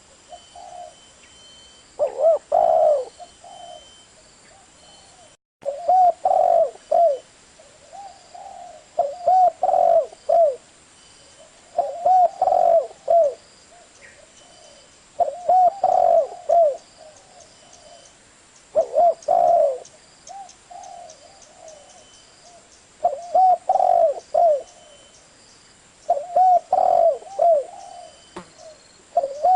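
Spotted dove cooing: a phrase of three or four low, rolling coos, repeated about every three seconds with one longer gap near the middle.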